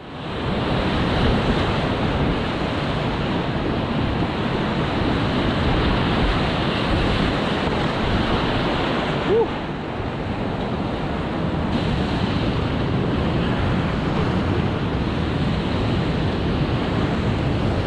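Rushing whitewater: a steady, loud wash of churning river water, with a brief short squeak about halfway through.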